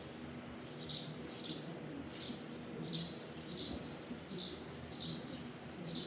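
A bird calling in a steady series of short, high chirps that slide downward, repeating about every 0.7 seconds, over faint background noise.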